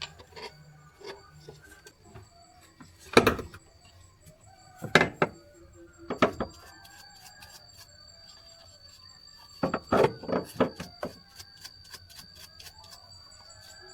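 Scattered knocks and clanks of hand work on parts, with louder thumps about three and five seconds in and a quick run of knocks near ten seconds.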